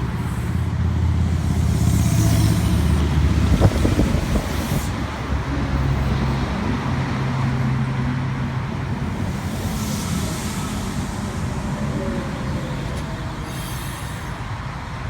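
Sydney Trains V-set electric intercity train pulling into the platform: a steady low rumble and motor hum, loudest in the first few seconds, with a single sharp clank about three and a half seconds in, then gradually quieter as it slows.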